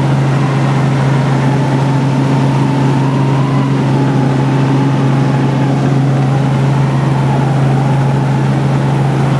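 Helicopter in flight, heard from inside the cabin: a loud, steady mechanical drone with a strong low hum and a higher tone that wavers slightly.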